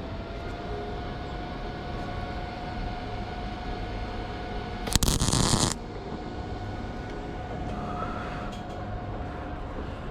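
A single short tack weld on steel: under a second of crackling arc about five seconds in, over steady background noise.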